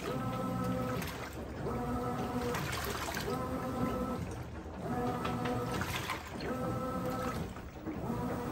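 Brastemp 17 kg top-loading washing machine agitating a load in water: the motor hums in runs of about a second, each broken by a short swish of sloshing water as the agitator reverses.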